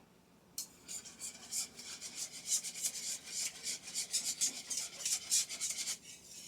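Rapid, rhythmic, scratchy scraping strokes of a kitchen utensil, starting about half a second in and stopping shortly before the end.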